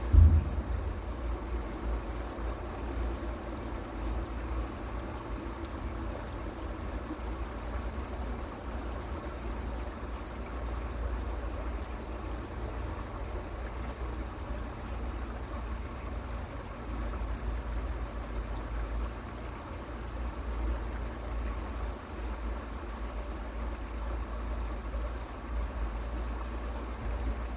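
Creek water running steadily, over a constant low rumble, with a single knock right at the start.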